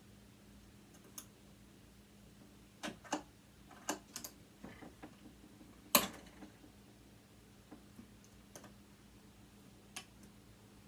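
Scattered small clicks and taps of metal parts and tools being handled while a sewing machine is taken apart by hand, about ten in all, with one sharper knock about six seconds in.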